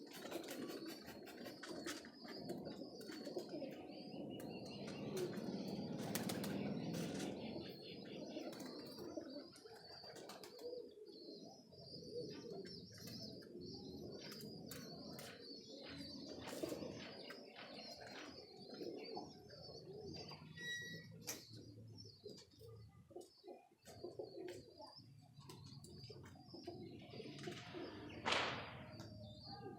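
Pigeons cooing in their loft, a low murmur broken by many short clicks and wing flaps. A brief, louder swish comes near the end.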